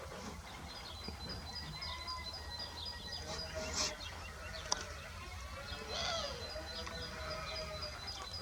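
Several wild birds singing and calling, one repeating a fast, even series of high notes for a few seconds, pausing, and starting again, over a steady low rumble.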